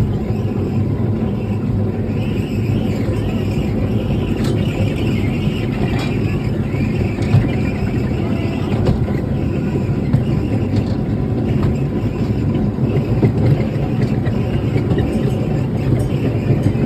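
Steady running rumble of a theme-park ride-on train, heard from aboard, with a few faint clicks scattered through it.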